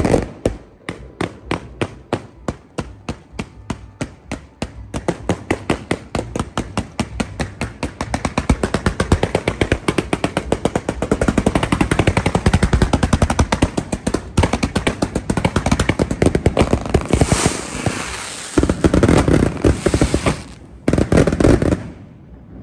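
Single-shot firework tubes fired in rapid sequence: a run of sharp bangs, several a second, that speeds up until the shots run together into a continuous barrage. A few heavier bursts come near the end before the firing stops suddenly.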